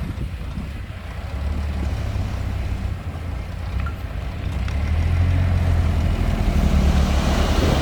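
Heavy diesel engine of earthmoving machinery running with a low, steady drone that grows louder in the second half.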